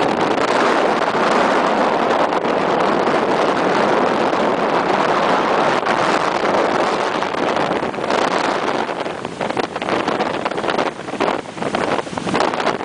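Loud, steady rushing noise of a moving car on the road: wind and road noise blended with the rush of a fast mountain river. It grows gusty and uneven in the second half.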